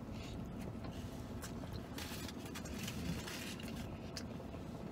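A man chewing a mouthful of chicken and avocado burrito close to the microphone, with scattered short, wet crackles of mouth noise, over a steady low hum inside a vehicle cabin.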